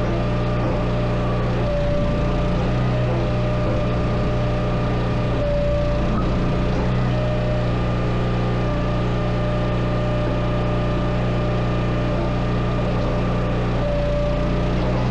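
Engine running steadily at a constant speed, with small shifts in its pitch now and then.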